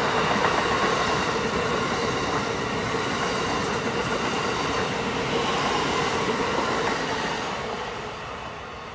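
Amtrak passenger coaches rolling past on the rails, a steady rush of wheel and rail noise that fades from about seven seconds in as the train pulls away.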